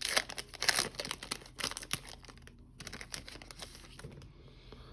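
Foil trading card pack wrapper crinkling and cards being handled, a busy run of crackles that dies down after about two and a half seconds to faint rustling.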